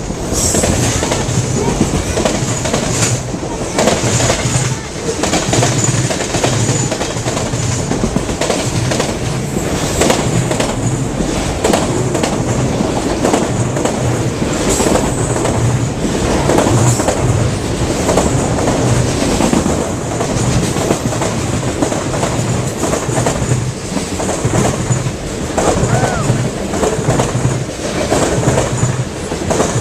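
A train rolling past close at speed, its wheels clattering in a steady rhythm over the rail joints.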